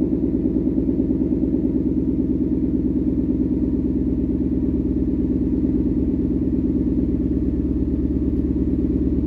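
2020 Ford Mustang GT's 5.0-litre V8 idling steadily through a Thermal R&D cat-back exhaust, with an even low pulse from the exhaust, the engine still cold from a cold start.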